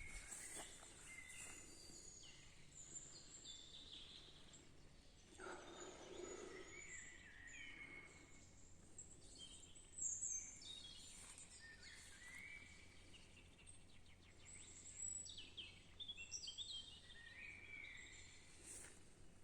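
Faint songbirds chirping and calling, many short overlapping calls and quick gliding notes. A brief louder sound comes about ten seconds in.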